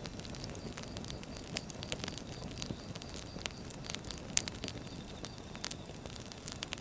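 Wood fire burning: a steady low rumble of flames with frequent irregular crackles and snaps, one sharper pop about four and a half seconds in.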